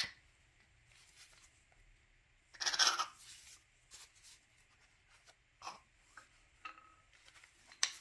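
Scattered scrapes and light clicks of a tool working at a snap ring inside a Bilstein shock body, with one longer scrape about three seconds in.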